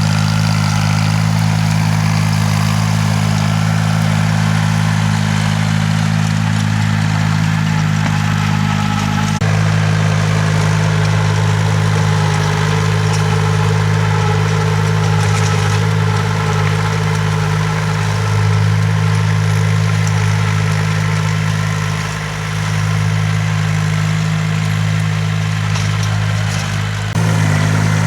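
Engine of a farm tilling machine running steadily at a constant speed, with a low drone. The sound shifts abruptly about a third of the way in and again near the end.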